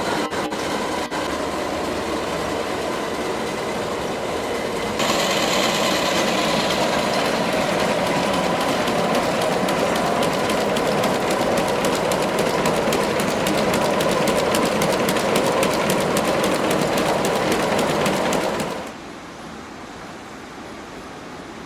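Textile factory machinery running with a fast, even mechanical clatter. About five seconds in the sound changes abruptly to a louder, denser clatter, and near the end it drops suddenly to a quieter steady machine noise.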